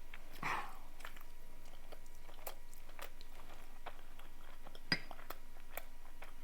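Close-miked chewing and mouth sounds of someone eating curry and puri: scattered small wet clicks and smacks, with a sharper click about five seconds in.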